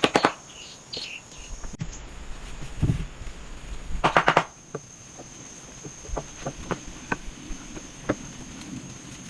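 A steady high insect note, as of crickets, runs under the window. A quick run of sharp clicks sounds right at the start and again about four seconds in, with scattered light ticks later.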